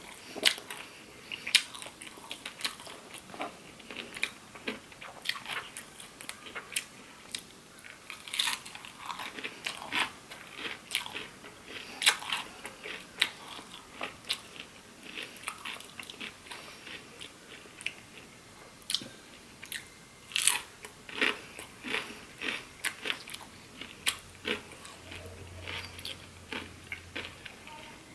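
Close-miked eating sounds: a person biting and chewing food, with many irregular sharp crunches and wet mouth clicks.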